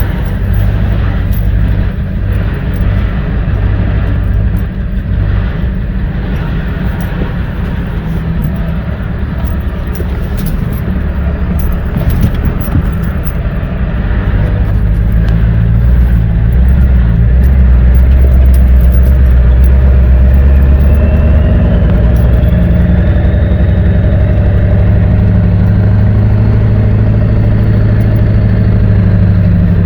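A small vehicle's engine running as it drives along a rough trail, getting louder about halfway through as it speeds up.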